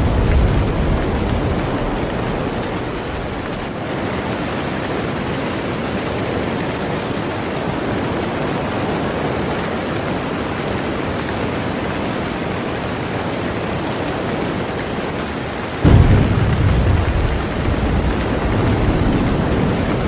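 Heavy rain falling on a boat as a steady hiss. A low rumble of thunder fades away over the first couple of seconds, and a louder one starts suddenly near the end.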